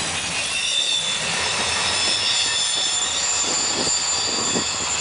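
Trailer-on-flatcar freight train rolling past on a downgrade curve, its wheels squealing in several steady high tones over the rumble of steel wheels on rail. Short knocks join in from about halfway through.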